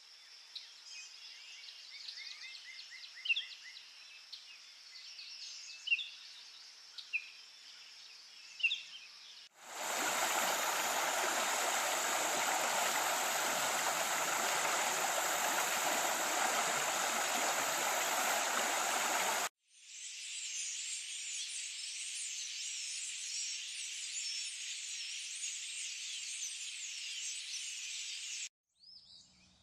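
Rainforest ambience in three abrupt pieces. First a high, steady insect chorus with a few sharp bird calls. Then, about ten seconds in, a loud, steady rush of water for about ten seconds, followed by a dense insect chorus again that cuts off near the end.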